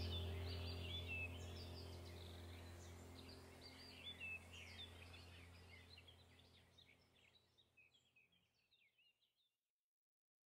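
Small birds chirping over a steady low hum, the whole fading out to silence about three-quarters of the way through.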